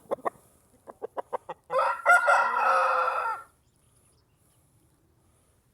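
Shamo gamecock clucking in short quick notes, then crowing once for nearly two seconds.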